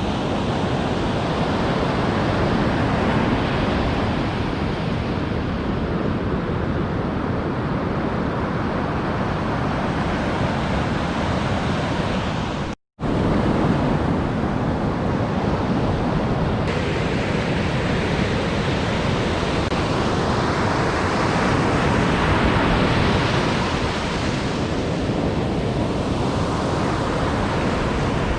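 Ocean surf breaking and washing on a beach: a steady rushing that swells and eases. It cuts out for a split second about 13 seconds in.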